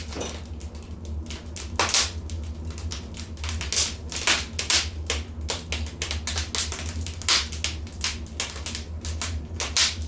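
Wood fire burning in a fireplace, crackling with irregular sharp pops and snaps, several a second, over a low steady rumble.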